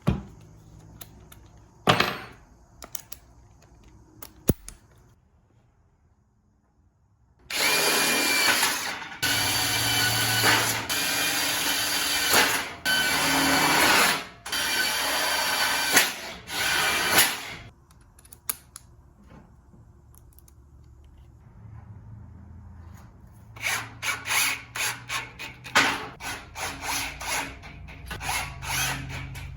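A power tool worked on aluminium tubing, running in several long bursts with short breaks, starting about a quarter of the way in. Near the end come quick, even scraping strokes, a few each second, like hand-filing metal.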